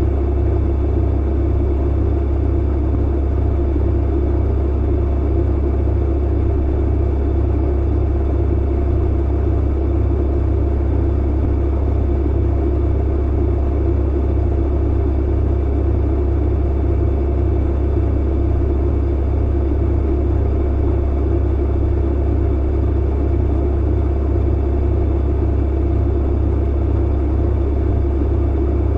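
Clothes dryer running: a steady low rumble from the motor and turning drum, with a faint even hum above it and no distinct tumbling thuds.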